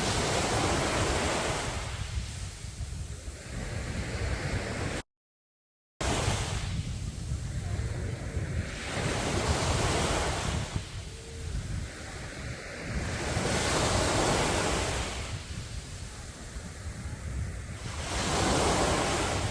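Sea waves breaking on a sandy beach, the surf swelling and falling away every four to five seconds. The sound cuts out completely for about a second, about five seconds in.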